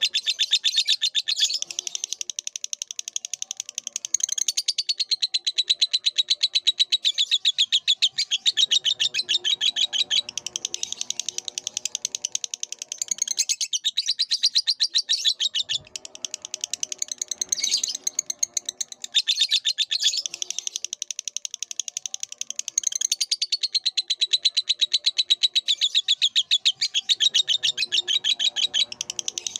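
Lovebird singing a long, fast chattering trill of rapid high chirps, broken only by a couple of brief pauses.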